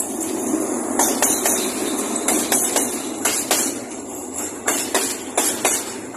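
Freight train of tank wagons rolling past close by behind an Alsthom diesel locomotive: a steady rumble of steel wheels on rail, broken by clusters of sharp clacks as the wheels cross rail joints.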